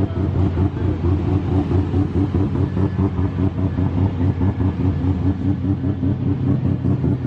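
A drift car's engine running at a lumpy idle: a steady low drone with a rapid, uneven pulsing.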